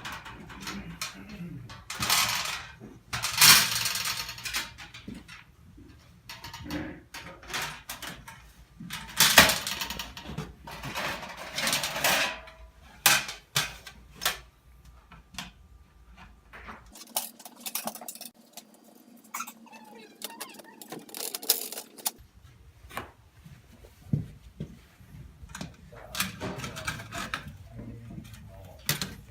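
Stainless steel campfire table being assembled: metal parts clinking, clattering and knocking together in irregular bursts, with sliding scrapes between them.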